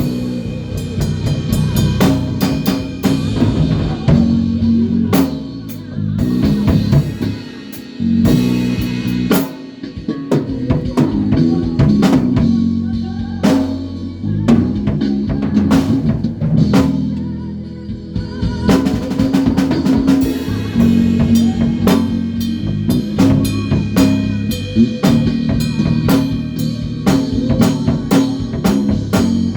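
A band rehearsing: a drum kit keeps a steady beat over a bass line. The playing thins out briefly about a third of the way in, then comes back in full.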